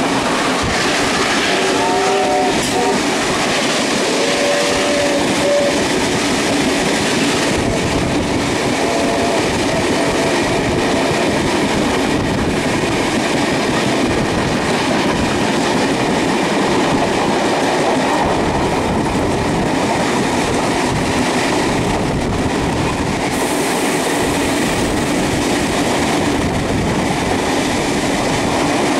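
Steady running noise of a steam-hauled train at speed, heard on board: wheels and carriages rumbling on the rails.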